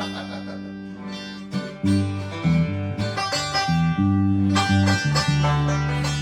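Acoustic guitar with low notes plucked and left to ring, stepping between a few notes in short runs, then holding one note near the end: instruments being checked and retuned between songs.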